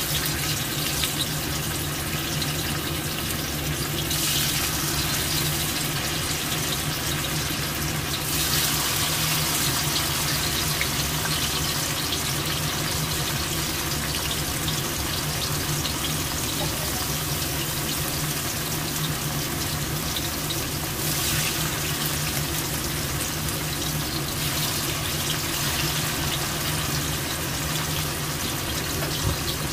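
Tofu blocks deep-frying in hot oil in a wok, a steady sizzle that turns brighter for a few seconds at a time, around four seconds in, again from about eight to thirteen seconds, and briefly past twenty seconds.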